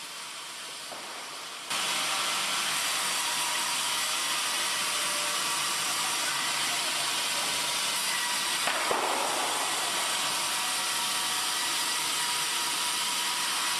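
A steady, even machine hiss that cuts in suddenly about two seconds in and holds level, with one brief swell partway through.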